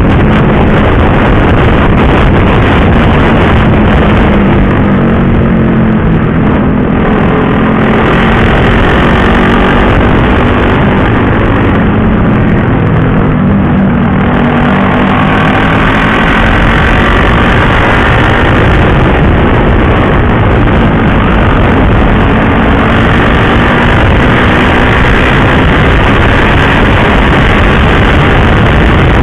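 Sport motorcycle engine under way at riding speed, its note rising and falling repeatedly as the throttle opens and closes through the corners.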